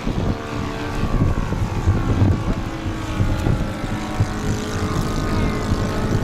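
Radio-controlled seaplane's motor and propeller running with a thin whine that slowly shifts in pitch, under gusts of wind buffeting the microphone.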